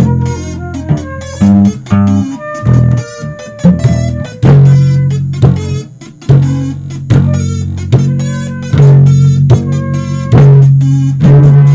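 Electric bass and guitar playing together: plucked notes over held low bass notes.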